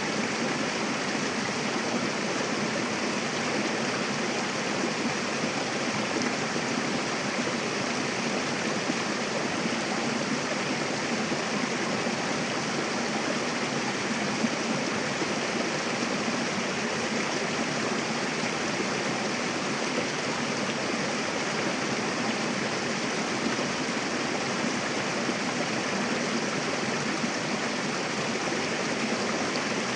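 Mountain river running over rocks: a steady, unbroken rush of flowing water.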